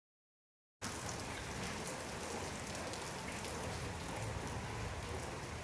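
Steady rain falling, with scattered drop ticks, starting abruptly just under a second in after dead silence.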